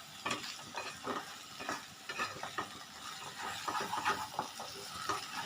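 A utensil stirring chicken sausages and sauce in a hot frying pot, with a faint sizzle under irregular scraping strokes against the pot, as cornstarch slurry is mixed in.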